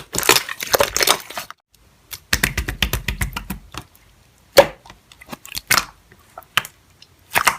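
Slime being squeezed and poked by hand, giving a dense run of small crackling pops and clicks, then a few separate louder crackles.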